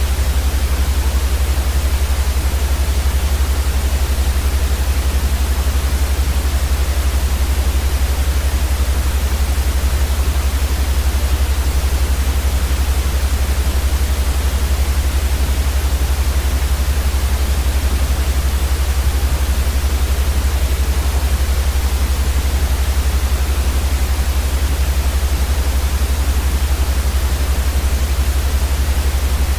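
Steady, unchanging white noise for sleep, an even hiss across all pitches over a heavy low rumble.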